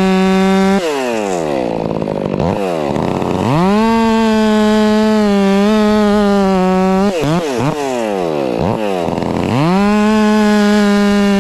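Stihl MS 400 C two-stroke chainsaw running at full throttle. About a second in, its engine speed drops steeply and then climbs back. It dips twice more briefly later on, each time recovering to the same high pitch, as the saw bogs and recovers in the cut.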